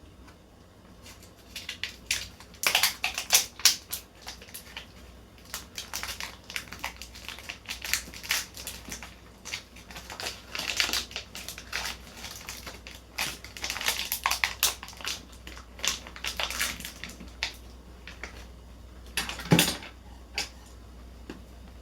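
Clusters of quick, irregular clicks and crackles, like things being handled, with one louder knock near the end.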